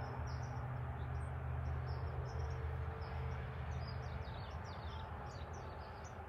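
Small songbirds chirping and twittering again and again in short high notes, over a steady low hum.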